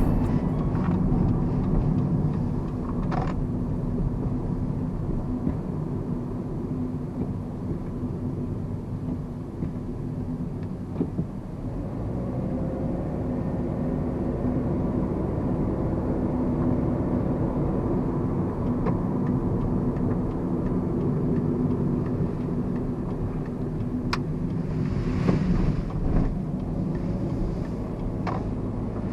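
2009 Mazda Verisa compact car's engine running with a steady low hum and a few faint clicks.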